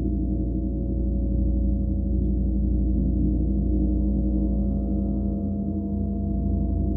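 Gong resonating continuously: a deep, steady hum of many overlapping low tones with a slight pulsing, and no distinct strike.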